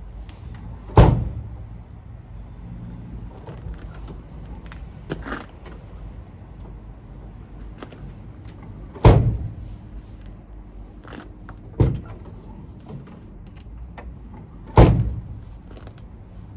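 Four heavy thumps on a truck's cab door, each ringing briefly, with a few lighter knocks in between.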